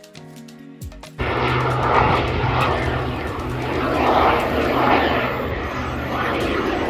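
Soft background music, cut off about a second in by the loud, steady engine noise of an airplane flying overhead, swelling and easing.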